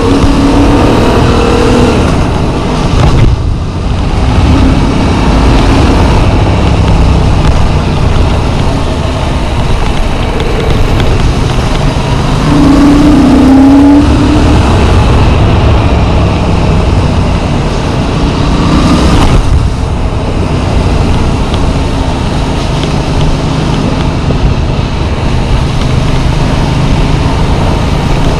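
Yamaha MT-07's parallel-twin engine running under way, its note rising and falling with the throttle and dipping briefly twice, under heavy wind rush on the rider's chest-mounted camera.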